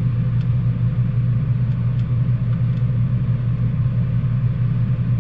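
A steady, loud low mechanical hum that does not change, with a few faint light clicks over it.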